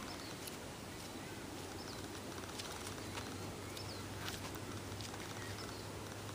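Faint outdoor ambience with a few scattered bird chirps and light clicks over a low steady hum that grows a little stronger about halfway through.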